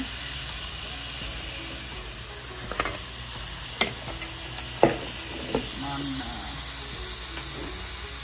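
Food sizzling and frying in a hot pan while it is stirred, with a few sharp clicks of the utensil against the pan, the loudest about five seconds in.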